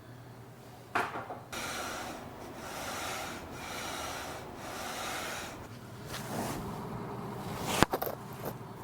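Kitchen handling sounds: a knock about a second in, then several seconds of rubbing or scrubbing, and a sharp clack near the end.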